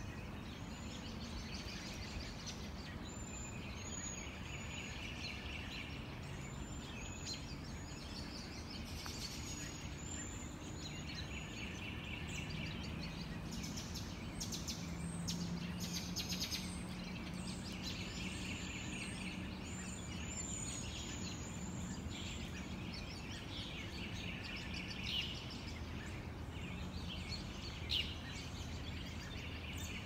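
Wild birds calling and chirping in the trees, with repeated short trills, over a steady low background hum. Two brief sharp ticks come near the end.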